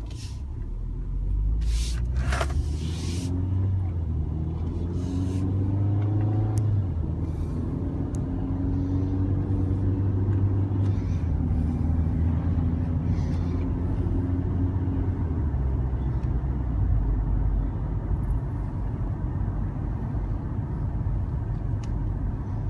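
Vehicle engine pulling away and accelerating, its note rising for several seconds, then dropping and settling into a steady low rumble at cruising speed.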